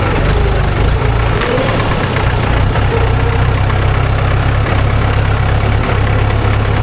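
Tractor diesel engine running steadily at a constant speed, with a low knocking hum.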